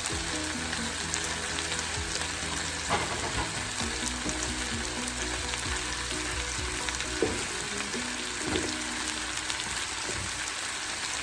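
Chicken pieces sizzling steadily as they fry in a pan in their own rendered fat, with a few brief knocks from a utensil stirring them.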